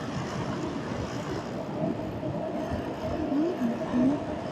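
Surron electric dirt bike riding along, its motor giving a steady whine over wind rush on the microphone.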